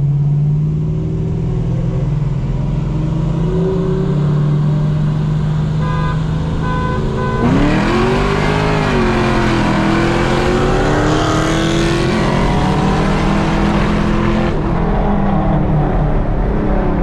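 Chevrolet Camaro SS V8 heard from inside the cabin during a roll race. It cruises steadily, then a few short beeps sound, and about seven and a half seconds in it goes to full throttle. The engine note climbs and drops in pitch through gear changes for about seven seconds, then eases off back to steady running.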